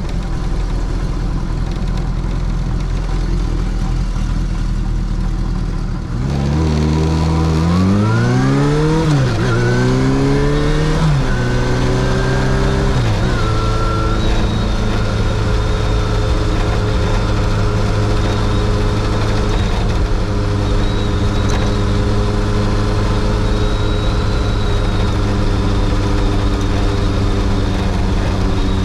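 Kawasaki Zephyr 750's air-cooled inline-four engine idling. About six seconds in it pulls away, the engine note rising through two or three gear changes, then it settles into a steady cruise.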